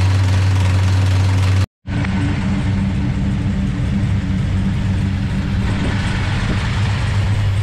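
Dodge Charger's big-block V8 idling steadily. The sound breaks off for a split second about two seconds in, then the engine is idling again.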